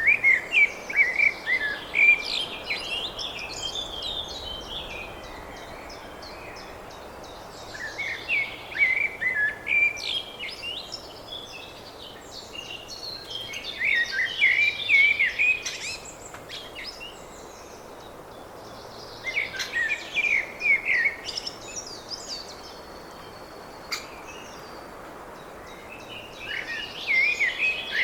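A songbird singing in repeated phrases of quick, warbling, pitch-bending notes. Each phrase lasts a few seconds, with pauses between them, over a steady background hiss.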